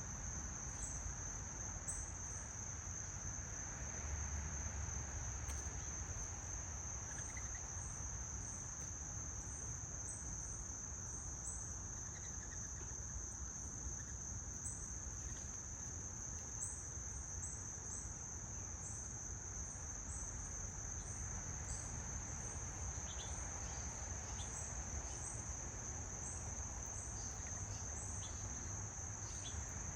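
A steady, unbroken high-pitched insect trill from a chorus of crickets or similar insects, with brief high chips scattered through it.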